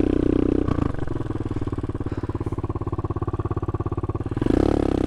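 Off-brand Chinese 250cc dirt bike engine running. It is held at higher revs, drops under a second in to a lower, evenly pulsing idle, and picks up again near the end.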